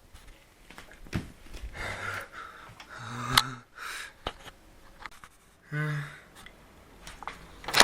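A person's brief vocal sounds and breaths, two short hums or grunts among them, with a few scattered knocks and clicks.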